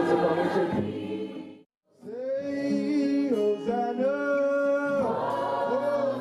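A choir singing in harmony. The singing fades and breaks off about a second and a half in, then comes back with long held notes in several voices.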